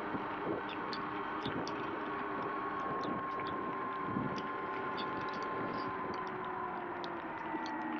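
Sur-Ron X electric dirt bike riding on a wet road: a steady electric-motor whine over tyre and road hiss, the whine dropping slightly in pitch near the end as the bike slows. Scattered faint ticks of raindrops run through it.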